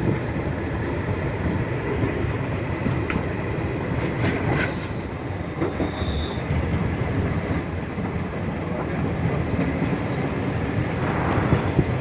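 Passenger train running on the track: a steady rumble, with a few short high squeals from the wheels in the second half.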